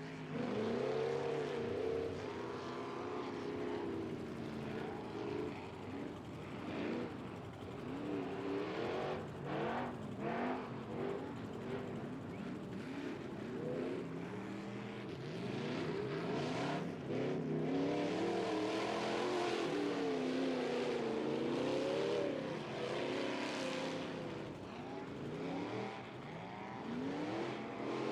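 Off-road race truck's engine revving hard and unevenly, its pitch rising and falling over and over as the driver works the throttle up loose dirt hills and berms.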